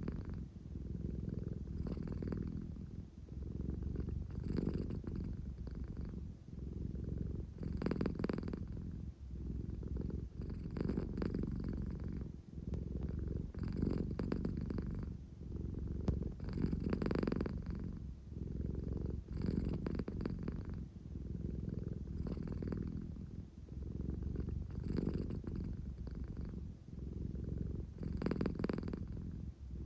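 American Shorthair cat purring steadily up close. The low rumble swells and eases with each breath, about every three seconds.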